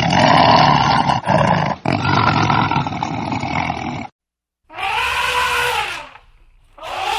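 Animal calls: a loud, rough roar for about four seconds, then after a short silence two separate pitched calls about a second long, each rising and falling.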